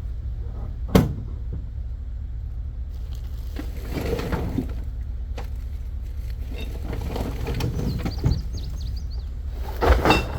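Trash being unloaded from a pickup truck into a dumpster: one sharp bang about a second in, clattering and knocking around the middle, and a louder clatter near the end, over a steady low rumble.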